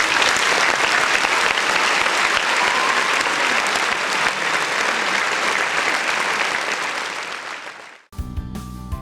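A crowd applauding: a dense, steady wash of clapping that fades away near the end. In the last second a short musical clip begins.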